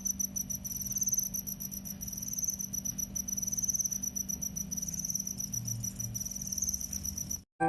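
Cricket chirping: high-pitched pulsed trills in runs of about a second each, repeating over a low steady hum, cutting off suddenly near the end.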